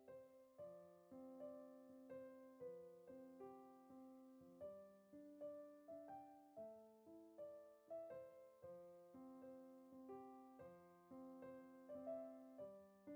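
Quiet background piano music, a steady run of gently struck notes.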